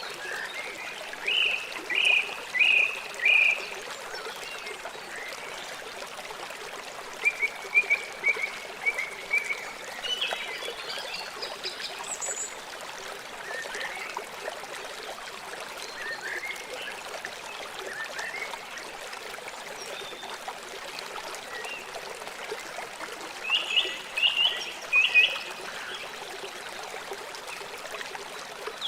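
River water flowing steadily, with birds calling in short runs of repeated notes three times: near the start, about a quarter of the way in, and near the end.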